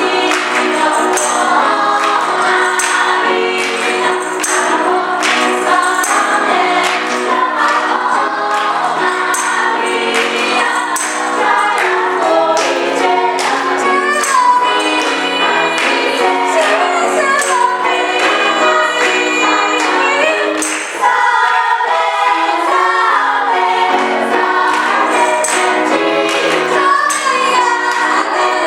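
Gospel choir singing in full harmony over a steady beat of percussion hits. The sound dips briefly about two-thirds of the way through, then the choir comes back in fuller.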